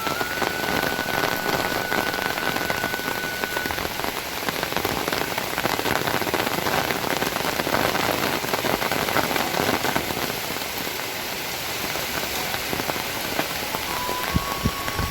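Heavy rain falling steadily, a dense patter of drops on a surface. A few held, stepped tones sound over it in the first few seconds and again near the end.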